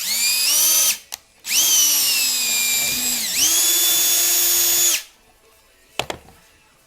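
A 20-volt cordless hammer drill boring a hole in wood, in two runs: a short one of about a second, then one of about three and a half seconds in which the motor's pitch sags and recovers partway through. A sharp click about a second after it stops.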